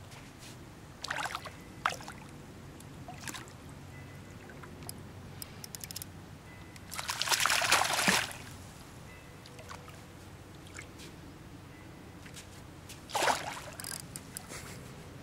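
Water splashing and sloshing in a few short bursts, the loudest and longest, about a second and a half, just past the middle.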